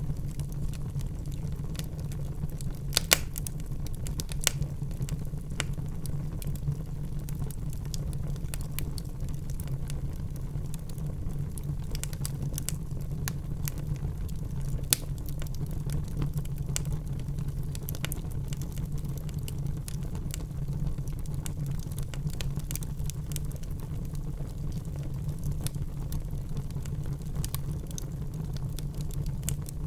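Wood fire crackling in a fireplace: scattered sharp pops and snaps over a steady low rumble of burning, with the loudest pops about three seconds in and near the middle.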